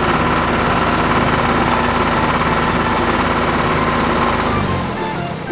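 Cartoon sound effect of a heavy vehicle's engine running steadily, then dropping in pitch and dying away shortly before the end.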